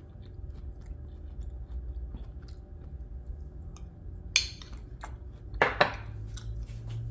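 A person chewing a mouthful of fruit cereal made with walnuts and ice in almond milk: soft, wet chewing with small crunches, and a few louder mouth sounds a little past the halfway point.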